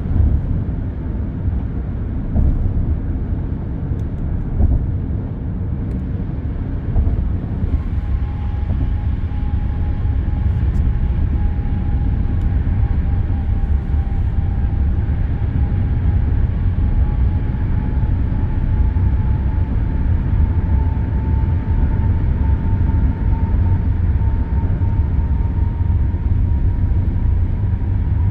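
Steady low rumble of expressway traffic. About eight seconds in, a faint whine joins it and slowly rises in pitch.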